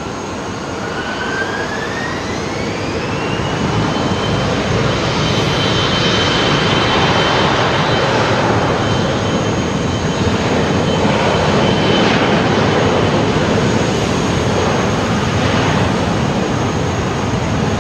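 Jet airliner engines spooling up to high power: a whine rises in pitch over the first three seconds and then holds steady, over loud, steady jet noise that grows and then levels off.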